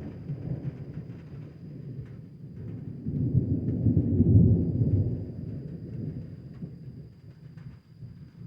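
Deep rolling thunder rumbling low, swelling to its loudest about four seconds in and then dying away, with light rain falling faintly.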